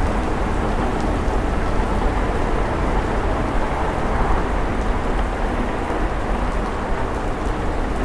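Steady rain falling on a car, with the low rumble of the car driving underneath and scattered faint drop ticks.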